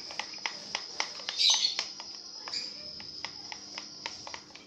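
Slime mixture of clear glue, water and liquid soap being stirred in a container, with irregular clicks and taps of the stirrer, several a second. A brief high chirp comes about a second and a half in.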